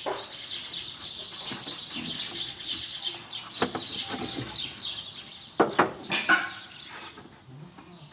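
Small birds chirping in a steady chatter, with a few sharp knocks about halfway through and again around six seconds in.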